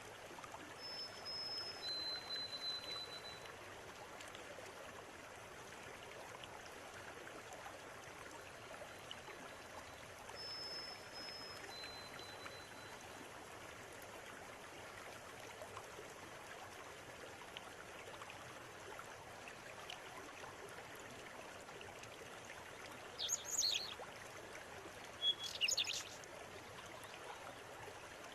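River water running steadily, with a bird calling two clear held notes, a high one then a lower one, twice (about a second in and about ten seconds in). Near the end, louder bursts of quick bird chirps stand out above the water.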